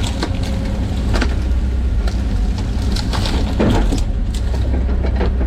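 John Deere 130G excavator's diesel engine running steadily, with several sharp cracks and knocks as the bucket breaks and handles trees and brush.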